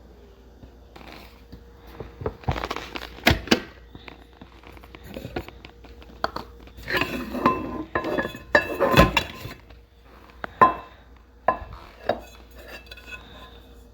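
Kitchenware clinking and clattering as the rice cooker's removable ceramic pot and its measuring cup are handled, with a series of sharp clinks that ring briefly.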